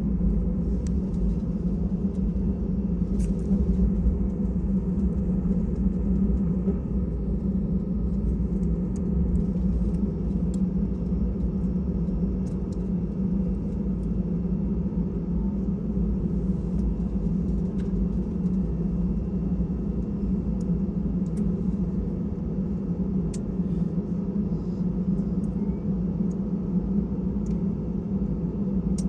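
Steady low rumble of an Airbus A320 heard inside the passenger cabin, with a constant hum and a few faint ticks.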